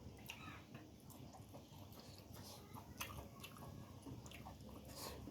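Faint chewing and mouth sounds of a person eating: irregular soft smacks and clicks as food is chewed.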